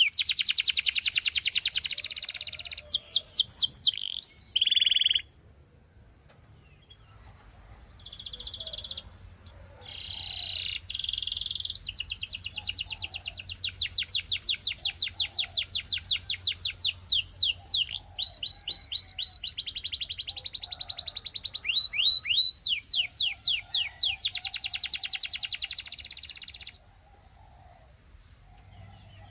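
Russian singing canary singing long, fast trills: runs of rapidly repeated high notes, each phrase a quick series of pitch sweeps, broken by short pauses about five seconds in and near the end.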